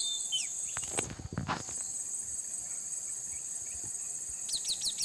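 Steady high-pitched insect drone, with a brief rustle about a second in. Near the end a bird starts a quick series of short, falling chirps, about four a second.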